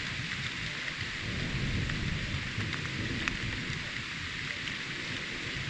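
Steady rain hissing, with a few sharper drop ticks. A low rumble of thunder swells up about a second and a half in and fades again a couple of seconds later.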